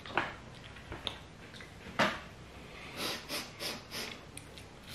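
Close mouth noises of someone eating fufu with peanut soup, chewing and smacking their lips. A few separate wet clicks come first, then a quicker run of smacks, about three a second, near the end.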